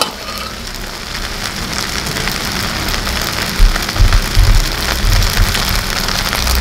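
Fried rice sizzling in a hot wok as it is stirred and turned with a metal spatula, with a few low thuds about halfway through.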